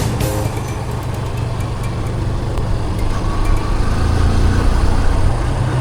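Motorcycle engine running under way, a steady low drone that swells a little about four seconds in.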